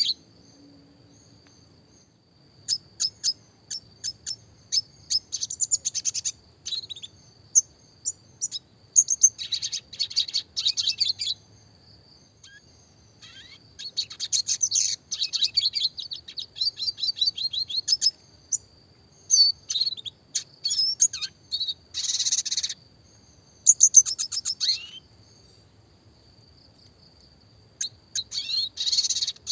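Red siskin (Spinus cucullatus) singing in bursts of rapid high twittering and fast trills, with pauses of a second or two between phrases.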